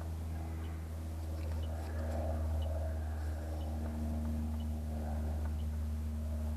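Steady low hum of a running Rheem heat pump's outdoor unit, with a faint high tick about once a second from an electronic refrigerant leak detector warming up.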